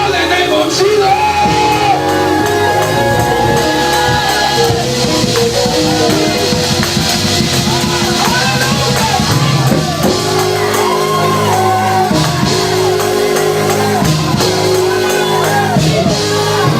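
Live gospel praise music: a band with bass and drums plays under sustained, gliding singing voices, with shouts ringing in a large hall.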